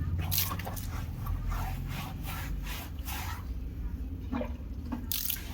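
Grooming gloves scrubbing shampoo into a Saint Bernard's wet coat: a run of irregular short rubbing strokes over a low steady hum.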